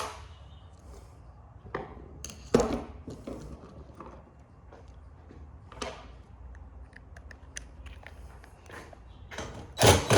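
Tools and metal parts of a dismantled printer clicking and clanking now and then. Near the end a rapid run of loud strikes, about eight a second, sets in.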